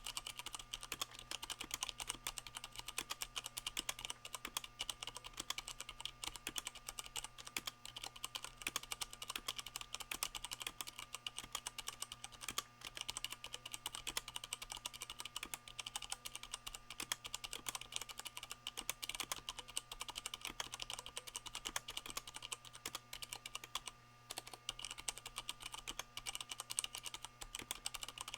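Continuous fast typing on a Leopold FC660M mechanical keyboard with Cherry MX Brown switches fitted with O-rings, which damp the keycaps' bottoming-out clack. Dense, even keystroke clicks with a brief pause about 24 seconds in.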